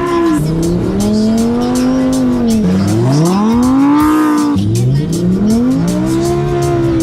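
Lamborghini Huracán Performante's V10 engine revving up and down as the car spins donuts in snow. The revs climb and drop about three times, falling off sharply at the top of one climb a little past halfway.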